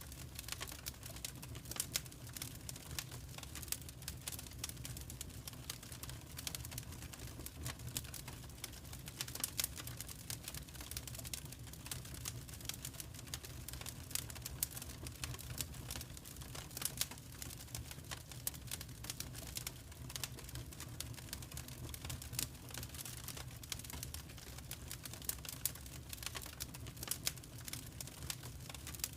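Wood fire crackling steadily in a fireplace: dense irregular snaps and pops over a low rumble of the flames.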